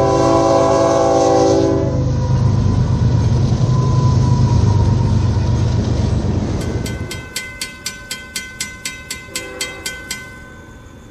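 A Florida East Coast freight train's horn sounds a chord for about two seconds over the heavy low rumble of the train passing. Then a grade-crossing warning bell rings in rapid, evenly spaced strikes and stops about a second before the end.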